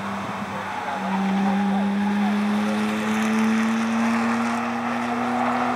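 2006 Subaru Impreza 2.5i's flat-four engine pulling hard past the camera on track. It grows louder about a second in, and its pitch rises slowly as the car accelerates.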